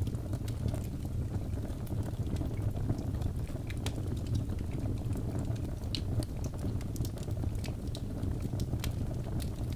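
Wood fire burning in a fireplace: a steady low rumble of flames with frequent small, sharp crackles and pops from the logs, scattered irregularly.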